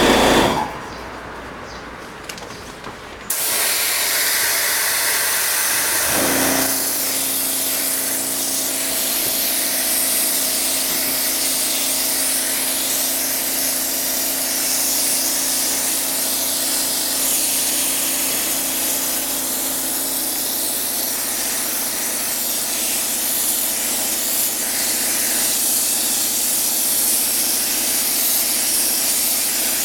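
Steady hissing water spray from a high-pressure washer jet cleaning an air conditioner, starting about three seconds in after a quieter gap. A steady hum joins it about six and a half seconds in.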